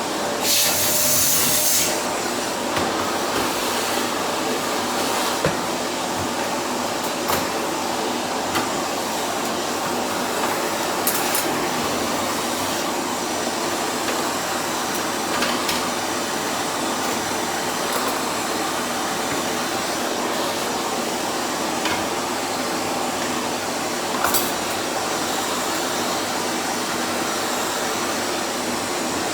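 Vacuum cleaner running steadily through its pipe, with a few sharp clicks scattered through.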